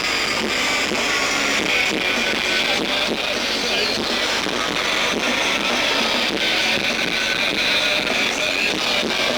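Live rock band playing with distorted electric guitars, recorded on an amateur camcorder so the sound is thin, with little bass.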